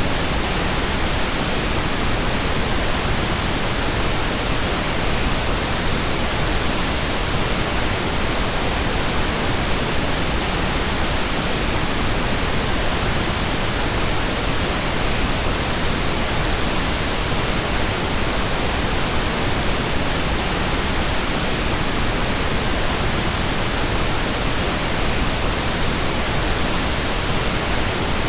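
Steady synthetic pink noise: an even, unchanging hiss spread across all frequencies, with no events or changes.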